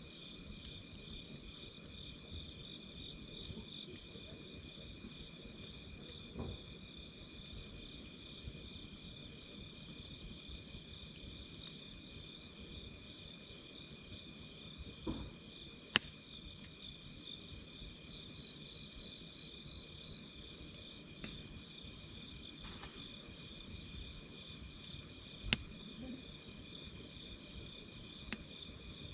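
Crickets trilling steadily, with a second, faster insect trill joining briefly just past the middle, over a low campfire crackle. A few sharp wood pops stand out, two of them loud: one about halfway through and one near the end.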